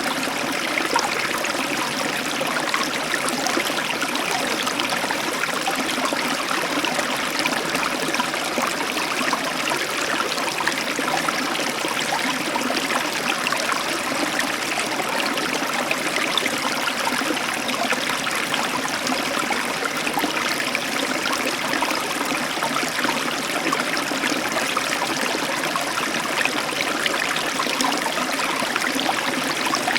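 Heavy tropical downpour heard through an open balcony door: a steady, dense hiss of rain.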